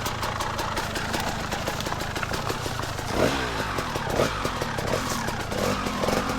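Two-stroke dirt bike engine revving under uneven throttle on a rough trail, its pitch rising and falling several times in the second half.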